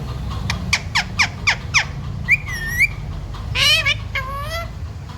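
Pet green parrot calling: a quick run of about six falling chirps, then a whistle, then two drawn-out, pitch-bending calls near the end. A steady low hum lies underneath.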